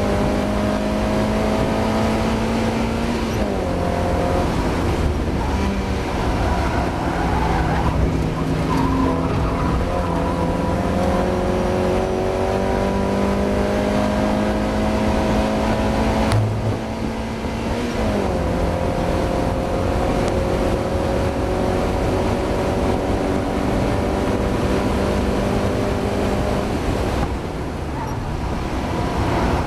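Mazda MX-5 race car engine running hard under load, its note climbing slowly with each gear and dropping sharply at shifts about three seconds in and about eighteen seconds in; near the end the note falls away briefly. The engine is one whose owner says it is still struggling with a misfire.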